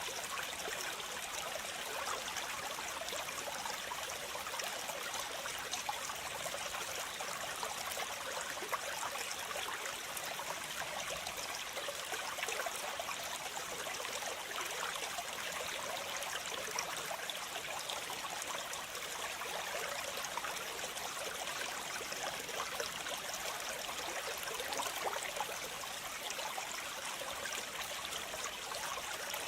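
Waterfall: water falling and splashing in a steady, unbroken rush, with more hiss and splash than low rumble.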